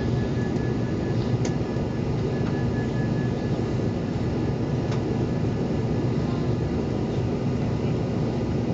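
Steady low hum and rumble of standing electric trains at a station, heard from inside a train carriage, with a couple of faint clicks.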